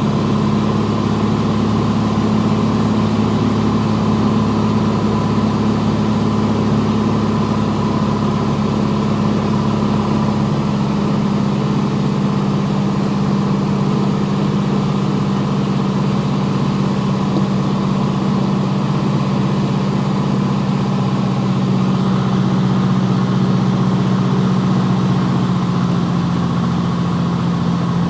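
Piper Comanche's single piston engine and propeller running with a steady drone, heard from inside the cabin; its pitch steps down slightly a couple of times.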